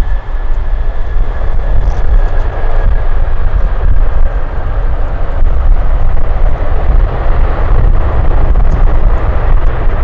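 Jet airliner engine noise mixed with heavy wind rumble on the microphone. A thin high whine fades out over the first few seconds.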